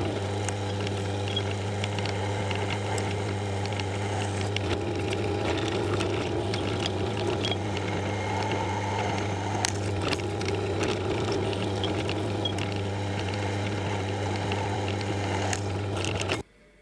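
Electric workshop machine running with a steady hum and scattered light ticks, cutting off suddenly near the end.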